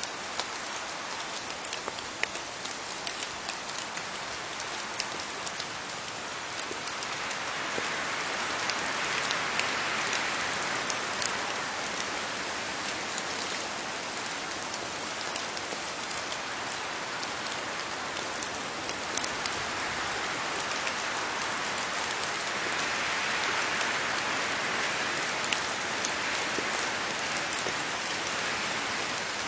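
Steady rain falling on leaves, many close drops pattering over a constant hiss, swelling a little twice, about a third of the way in and again near the end.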